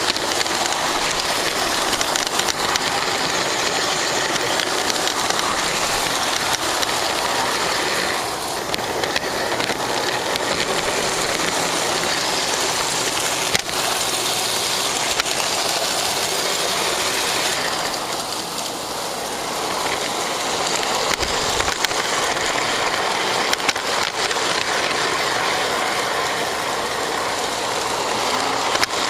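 Lionel GP9 O gauge model locomotive running along the track, heard from a camera riding on it: a steady mechanical rattle of wheels and motor with occasional sharp clicks, easing slightly twice.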